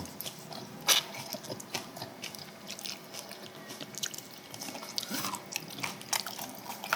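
Close-miked eating sounds: soft chewing and mouth noises with scattered small clicks, and a sharper click about a second in.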